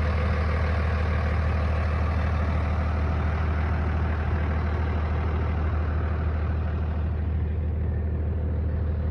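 Old truck's engine running steadily, a low even drone.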